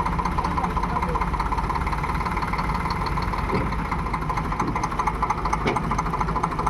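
Tractor diesel engine running steadily, with a fast, even firing rhythm.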